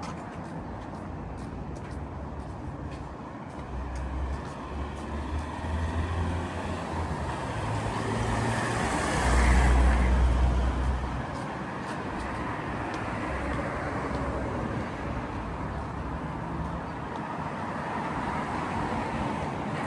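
Street traffic, with one vehicle passing close: it rises to its loudest about halfway through and then fades, over a steady deep rumble.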